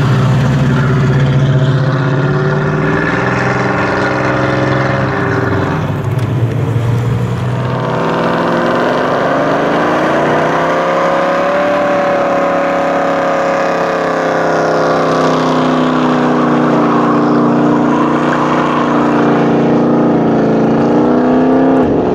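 American V8 muscle car engines revving hard. First a red first-generation Chevrolet Camaro pulls past. Then, from about eight seconds in, a mid-1960s Ford Mustang fastback is held at high revs in a smoky burnout, its pitch climbing, dipping and climbing again.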